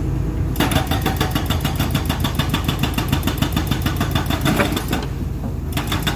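Cat 320D2 excavator diesel engine running, with a fast, even metallic clatter of about six knocks a second over it that pauses briefly near the end.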